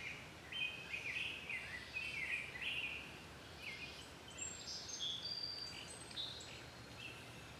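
Birds chirping and singing: a steady run of short, high chirps and quick trills, one after another.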